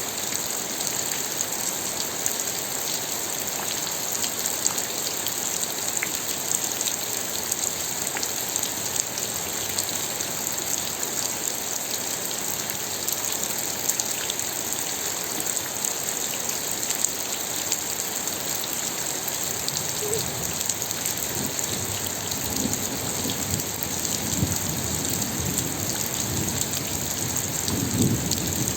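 Steady rain falling, with scattered drops ticking against a surface. In the last third a low, uneven rumble comes in and grows toward the end.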